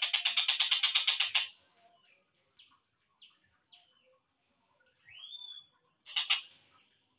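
Tengkek buto kingfisher calls on a slowed-down masteran recording. A loud, rapid rattling trill of about ten notes a second runs for the first second and a half. Short scattered chirps and a single rising whistle follow, then a brief second rattle near the end.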